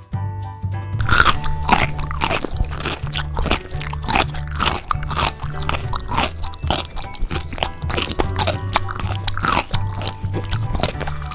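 Crunchy biting and chewing, a bite roughly every half second, starting about a second in, over background music with a steady bass line.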